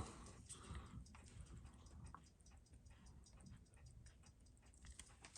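Faint, even ticking of a Seiko 6139 automatic chronograph movement running, several ticks a second, with a slight beat error after adjustment.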